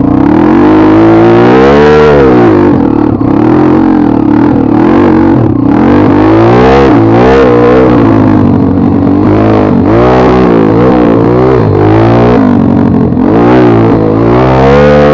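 Dirt bike engine revving up and down again and again, its pitch rising and falling in repeated swoops.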